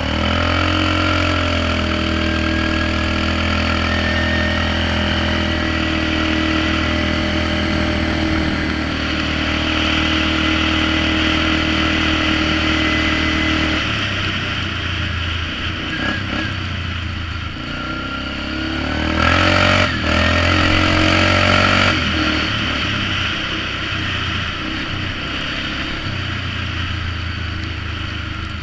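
Polaris Magnum 425 ATV's single-cylinder four-stroke engine running through a DG Performance RCM-II aftermarket muffler. It holds a steady speed for about the first half, then the engine speed changes and varies, with a louder burst of throttle about two-thirds of the way through.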